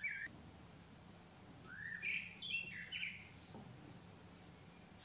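A small bird chirping: one short note at the start, then a quick run of rising and falling chirps from about two to three and a half seconds in.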